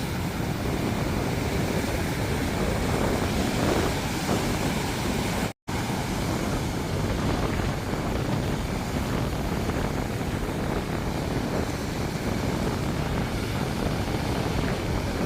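Ocean surf washing steadily, with wind buffeting the microphone. The sound drops out for an instant about five and a half seconds in.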